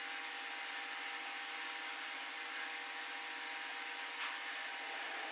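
Steady low background hiss with a faint constant hum, and one small click about four seconds in.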